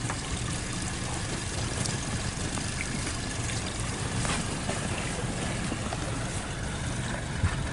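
Pontoon boat under way: a steady low engine hum mixed with water rushing and lapping against the hull.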